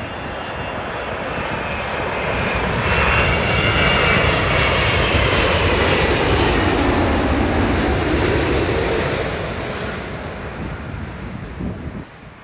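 Large jet airliner passing low overhead on its landing approach: the engine noise swells to a loud peak a few seconds in, holds, then fades, with its whine falling in pitch as it goes by. The sound drops off suddenly near the end.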